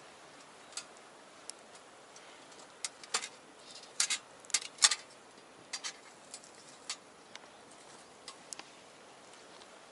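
Wood fire crackling in a small stainless steel box stove: irregular sharp pops and snaps, with a cluster of louder ones about three to five seconds in.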